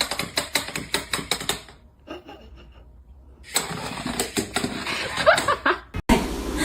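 A fast run of sharp clicks or taps, about six a second, that stops about a second and a half in. After a quieter pause, more clicking starts again with a few short rising squeaky sounds, and the sound breaks off abruptly just before the end.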